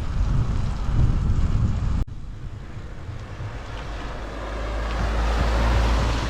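Wind rushing over the camera microphone on a bicycle ride. The noise cuts off suddenly about two seconds in, then returns quieter and builds up again toward the end.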